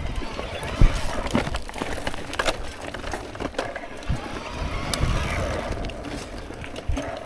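Mountain bike rolling over rough, wet trail: tyres on roots and rocks, with the chain and frame rattling and repeated sharp knocks, the loudest about a second in, over low wind rumble on the microphone.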